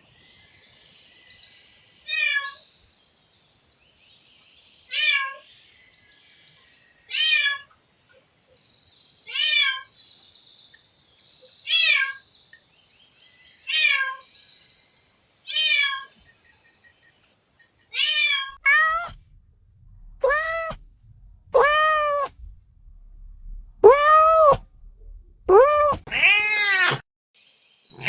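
A cat meowing over and over, a meow roughly every two seconds. In the last third the meows get louder and longer, each one rising and falling in pitch.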